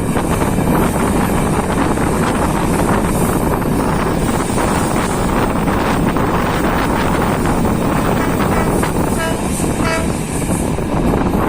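Diesel-hauled passenger train running, a steady rumble heavily mixed with wind buffeting the microphone. A couple of short, faint pitched tones sound about nine and ten seconds in.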